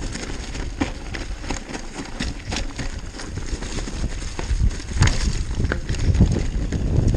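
Mountain bike rattling down a rocky trail: a steady run of clicks and knocks from the tyres and frame over stones, with a low wind rumble on the microphone that grows stronger over the last couple of seconds.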